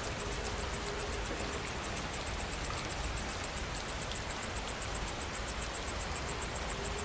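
Steady rain falling, with an insect chirping in a fast, even pulse high above it.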